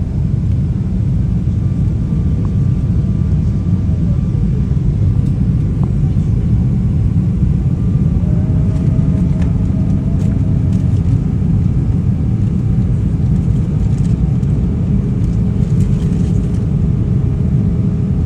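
Steady, loud low rumble of cabin noise inside a Boeing 777-300ER in flight, with faint engine tones above it; one tone glides down about four seconds in.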